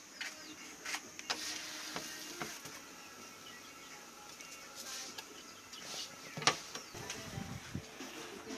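Kitchen work sounds: scattered light knocks and clicks of utensils and cookware being handled, the loudest about six and a half seconds in.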